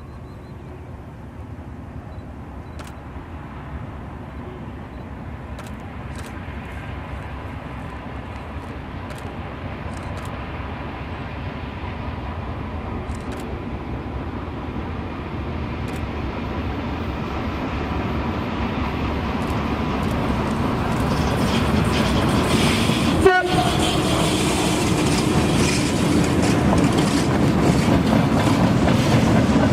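Electric train on the approach, its rumble growing steadily louder, with a single sharp click about three-quarters of the way in.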